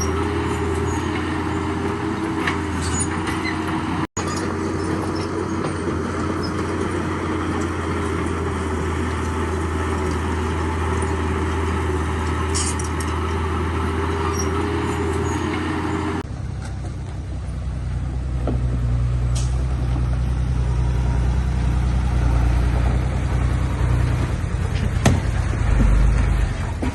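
Heavy diesel construction machinery running steadily. About 16 seconds in the sound switches abruptly to a deeper, louder engine.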